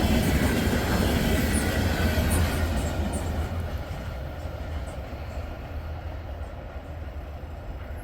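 Freight train's last cars rolling past, the rumble of wheels on rail fading away after about three seconds as the end of the train moves off.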